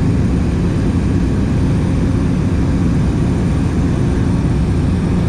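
Steady, loud drone of a light aircraft's engine and propeller, heard from inside the cabin in level flight.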